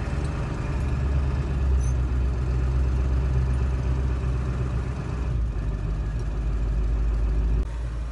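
A vehicle engine running steadily, heard from inside the cab as a deep, low rumble; it drops in level near the end.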